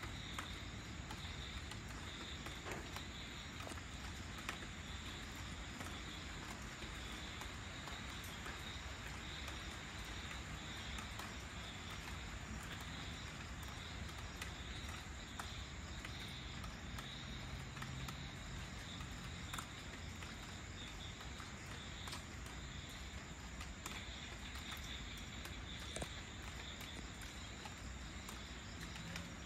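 Light rain falling steadily, with scattered small drips, and a chorus of insects chirping in an even pulsing high-pitched trill.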